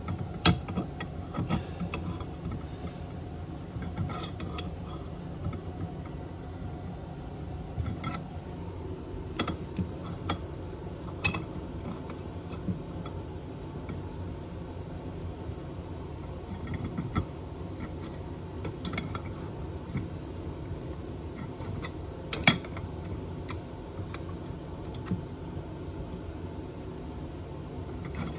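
Scattered metallic clicks and clinks of hand tools working on metal plumbing fittings, irregular and mostly light, with one sharper clank about three quarters of the way through, over a steady low hum.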